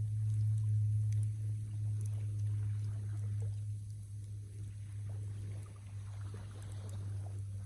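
Campfire crackling faintly, with scattered small pops and ticks, over a steady low hum that is the loudest sound.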